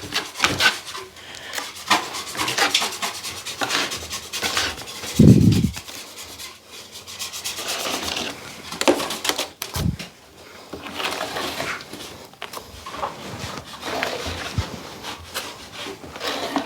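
Repeated scraping strokes of a drywall blade spreading and pressing hot mud (cornice cement) into the gaps of a plasterboard ceiling patch, with a louder low thump about five seconds in.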